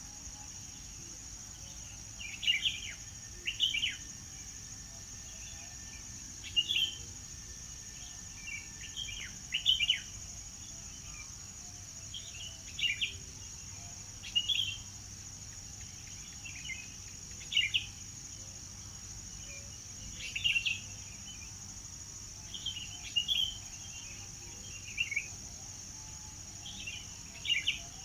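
Songbirds chirping in short, separate calls about every one to two seconds, over a steady high-pitched drone.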